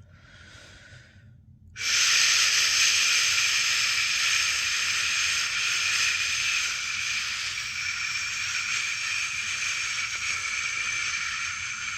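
A person shushing 'shhh' to soothe a newborn to sleep. A short, soft shush comes first, then a long, loud one starts about two seconds in and is held, fading slightly near the end.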